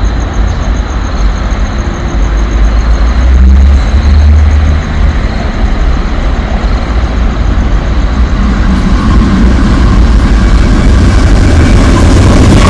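Train running: a loud, heavy low rumble, with thin steady high-pitched tones above it.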